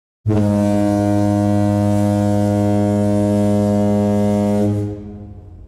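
A single long, low, steady horn blast with rich overtones, starting suddenly and fading out near the end.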